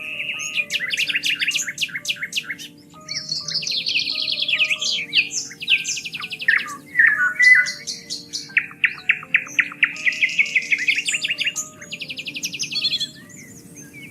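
Several songbirds singing in overlapping phrases: rapid trills, fast repeated chirps and short whistled glides, with a brief lull about three seconds in. Under them runs soft background music of slow, sustained low notes.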